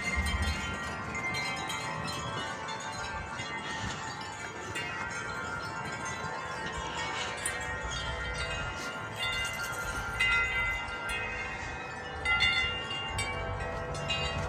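Wind chimes ringing in gusty wind: many overlapping notes sustain and ring on, with fresh strikes throughout. A low wind rumble sits underneath.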